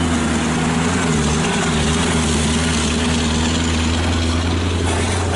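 Heavy diesel truck engine running steadily at idle, a constant low drone.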